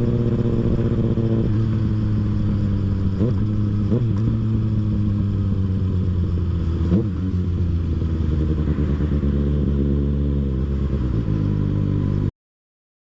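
Kawasaki ZX-6R 636 inline-four engine running at low revs in stop-and-go traffic, with a few brief rises in pitch. The sound cuts off suddenly near the end.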